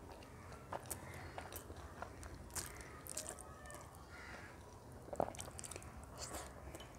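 Close-up eating sounds of a person eating rice and mashed taro-leaf greens by hand: wet chewing, lip smacks and mouth clicks, with fingers mixing rice on a steel plate. The clicks are scattered, with a louder smack about five seconds in.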